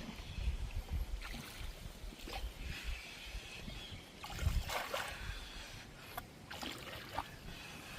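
Water splashing and trickling around a bamboo raft moving down a shallow river, in irregular bursts with the loudest about halfway through, over a low rumble.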